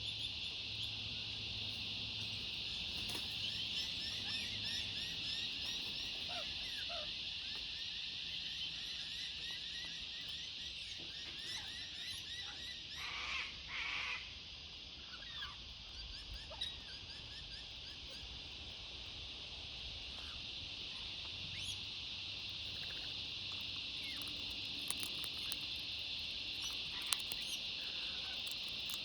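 Steady high-pitched outdoor chorus of calling animals, full of quick repeated chirps, with one short louder sound about halfway through.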